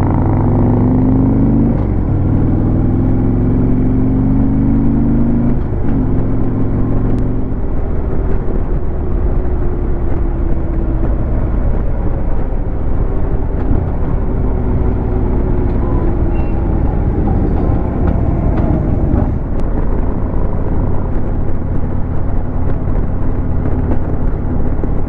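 Harley-Davidson Road King's V-twin engine under way on the road, its pitch climbing as it pulls, with a shift near six seconds in, then running steadily at cruising speed with road and wind noise.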